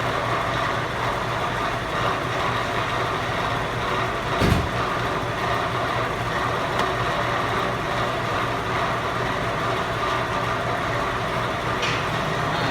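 Truck engine idling steadily on a chassis dyno, with one short knock about four and a half seconds in.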